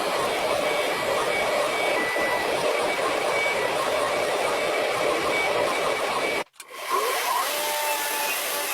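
Steady whirring noise of a running machine or motor, with a hiss and faint steady tones; it cuts out abruptly for a split second about six and a half seconds in and comes back with a slightly different pitch pattern.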